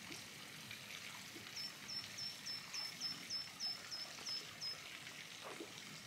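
A small songbird calling: a run of about eleven short, high, identical notes at roughly three a second, starting about a second and a half in and stopping near the end. Under it is a faint steady outdoor hiss.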